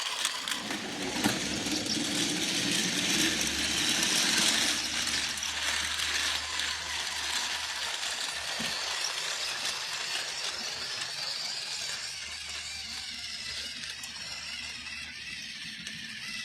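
Battery-powered toy train's small motor whirring as it runs along plastic track, with a steady rattle of wheels and track; it grows fainter in the last few seconds.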